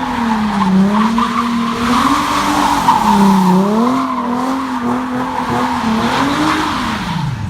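A car engine revving up and down hard while the tires spin and squeal, as in a burnout. The engine note falls away sharply near the end.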